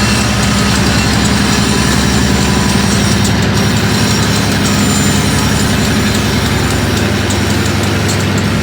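EMD MP15AC diesel locomotive's 12-cylinder 645 two-stroke engine running steadily at full throttle in Notch 8.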